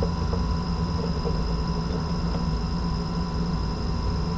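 Steady low rumble with a constant hum and a faint, high steady tone above it, unchanging.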